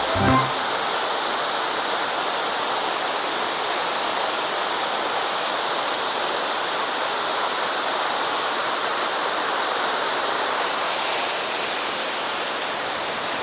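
Steady rushing water, an even unbroken hiss with no separate drops or events.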